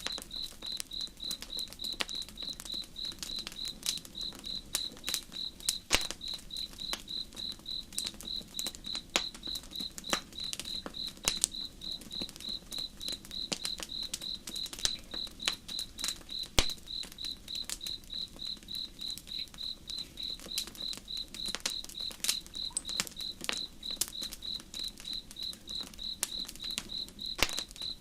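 Crickets chirping in a steady high-pitched rhythm, about two chirps a second, over the irregular crackle and pops of a wood campfire and a soft low rush of a slow river.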